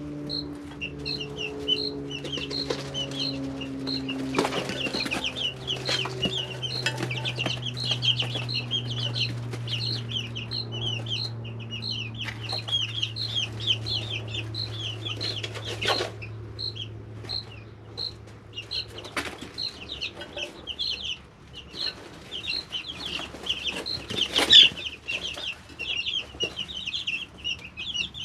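A brooder of three-week-old chicks peeping continuously, many short chirps overlapping, with scattered scratches and taps and one louder knock near the end. A faint low hum slowly drops in pitch and fades out about two-thirds of the way through.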